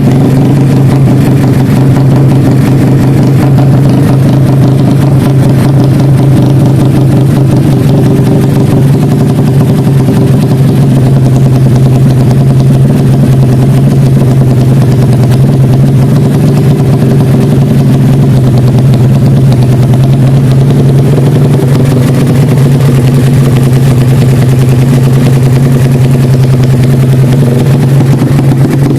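Honda Karisma motorcycle's single-cylinder four-stroke engine, bored out to 160 cc with 29/24 mm valves and a PWK 33 carburettor, idling steadily and loudly.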